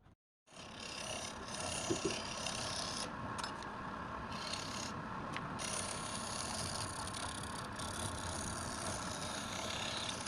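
Continuous scraping and rasping of a tool working wood, which starts about half a second in and carries on steadily.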